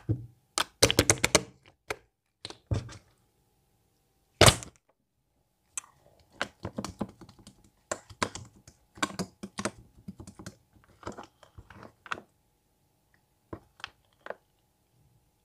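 Elmer's glue slime being squished and poked by hand: sharp clicks and pops, a quick flurry of crackles about a second in, one louder slap about four seconds in, then scattered clicks that thin out near the end.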